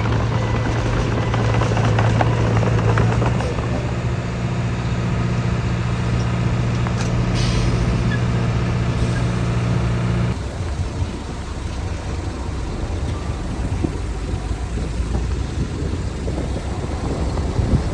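Heavy diesel earthmoving machinery running: a strong steady engine hum that drops away about ten seconds in, leaving a rougher mechanical rumble.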